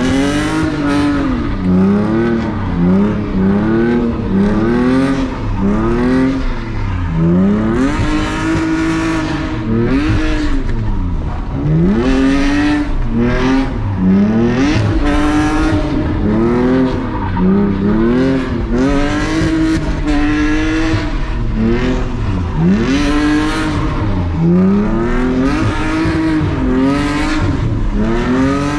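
BMW E46's engine revving up and down over and over, the pitch swelling and dropping every second or two, as the car is spun in circles on a wet surface, with some tyre squeal.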